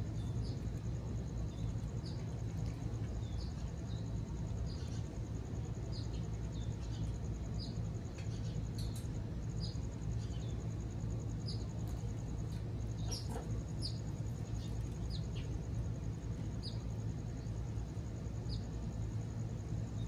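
Birds giving short, faint chirps about once a second over a steady low hum, with a thin, steady high buzz.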